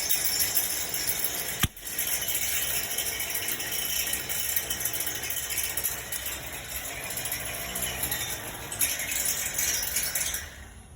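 Brazing torch flame hissing steadily on copper refrigerant pipe. There is a short break about two seconds in, and the hiss falls away just before the end.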